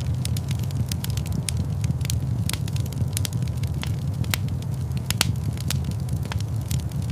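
Wood fire crackling in an open fireplace: irregular sharp pops and snaps over a steady low rumble of the flames.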